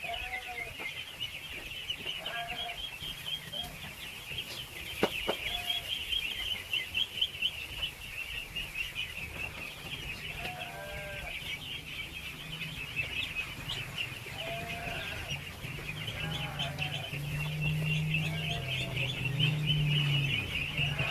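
A large flock of ducklings peeping continuously, hundreds of high calls overlapping, with an occasional lower call among them. A sharp click sounds once about five seconds in, and a low hum grows louder near the end.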